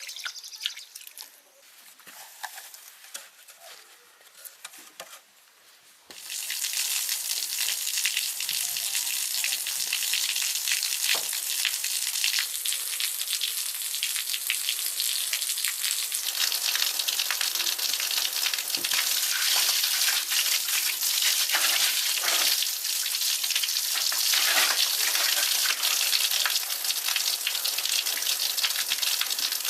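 Rushing, splashing water that starts suddenly about six seconds in as a loud, steady hiss, after a few seconds of a faint trickle and small knocks.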